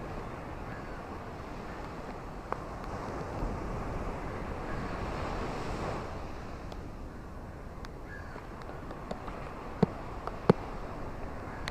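Ocean surf washing ashore in a steady rush, swelling as a wave comes in a few seconds in. Near the end come a few sharp clicks, two of them loud.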